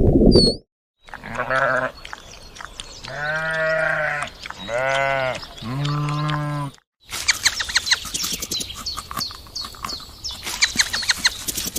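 Goat bleating four times, each call a drawn-out, wavering bleat, the second and fourth the longest. After a short break, a run of quick high chirps and clicks follows.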